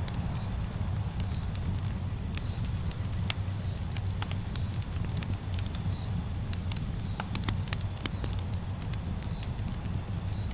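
Campfire burning with a steady low rumble and irregular sharp crackles and pops of the burning wood. A short high chirp repeats about once a second through it.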